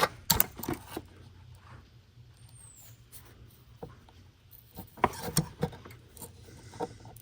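Light clicks and taps of hand tools and metal engine parts being handled on a workbench: a few near the start, a quiet stretch, then a short cluster about five seconds in.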